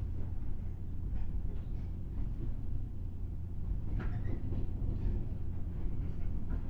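Running noise inside a JR 103 series electric motor car (MT55 traction motors) under way: a steady low rumble of the train on the rails, with one sharp click about four seconds in.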